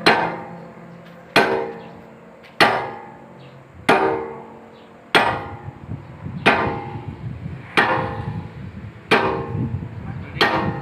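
Hammer blows on steel, nine evenly spaced strikes about one every 1.3 seconds, each ringing briefly: a pin or bushing being driven into an excavator bucket's pin joint. A low engine rumble runs underneath from about halfway.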